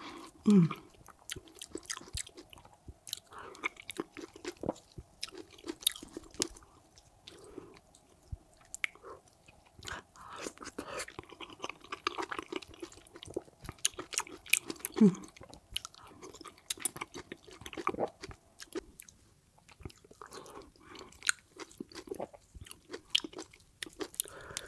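Close-miked wet chewing and mouth clicks of a person eating fufu with egusi soup by hand. Twice, near the start and about 15 s in, there is a short sound falling in pitch.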